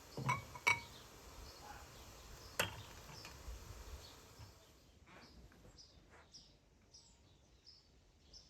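Three sharp clinks in the first few seconds, then small birds chirping in short calls.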